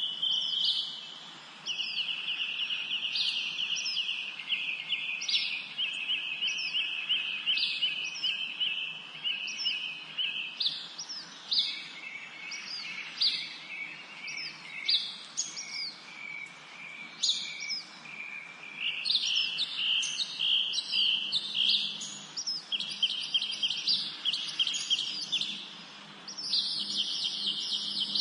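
Several songbirds singing together: long, rapid trills mixed with short, sharp notes that slide downward, repeated over and over. A louder trill sets in near the end.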